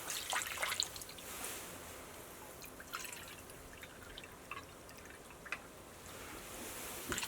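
Faint water dripping and trickling, with scattered small clicks and taps.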